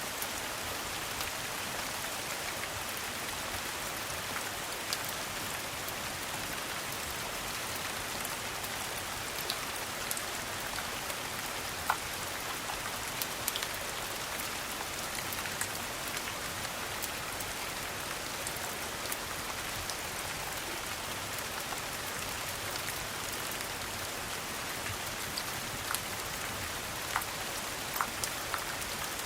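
Steady rain pattering, with a few scattered sharp pops and ticks from a crackling fireplace.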